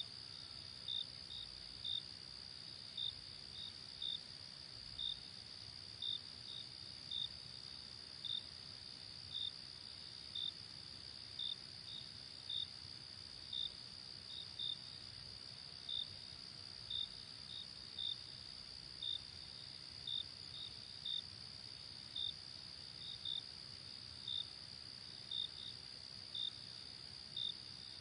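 Night insects calling: a steady high-pitched trill, with separate short chirps on top at an uneven pace of roughly one or two a second.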